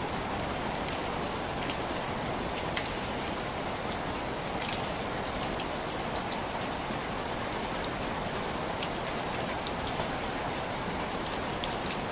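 Steady rain striking window glass: a constant hiss of rainfall with scattered sharp drop ticks throughout.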